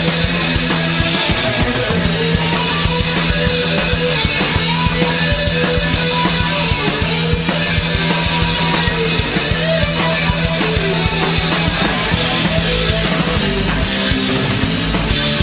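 Punk rock band playing live, a loud, steady instrumental passage of electric guitar and drum kit with no singing, heard through a muddy-sounding live recording.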